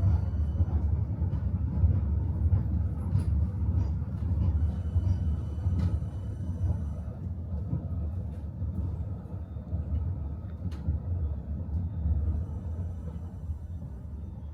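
Tram running on its rails, heard from inside the car: a steady low rumble with a few scattered clicks from the wheels, getting quieter toward the end.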